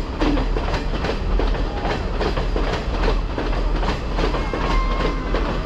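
Passenger train carriages rolling past at close range, their wheels clattering in a quick, even rhythm over the rail joints above a steady low rumble.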